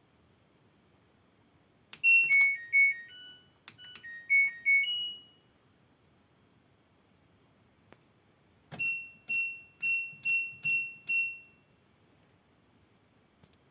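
LG washing machine control panel beeping. First a short electronic tune of a few notes plays twice in quick succession. A few seconds later come six identical high beeps in an even row, about two and a half a second, the alert that goes with its PF (power failure) error.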